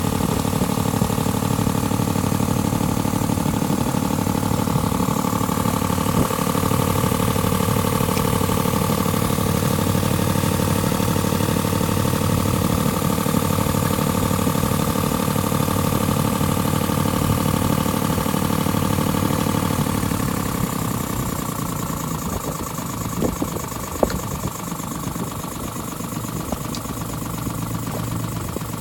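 Small boat's engine running steadily, then settling to a quieter, lower run about two-thirds of the way through, with a couple of short knocks soon after.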